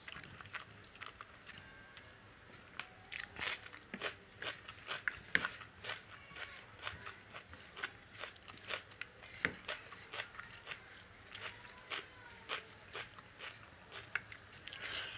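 A person chewing a mouthful of dal and rice eaten by hand: a steady run of irregular short wet clicks and smacks.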